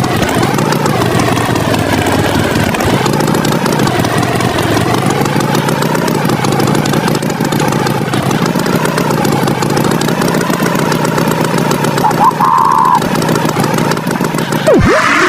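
Cartoon tractor engine sound effect running steadily, its pitch wavering a little. About 12 seconds in a short steady beep sounds, and near the end a quick tone swoops down and back up.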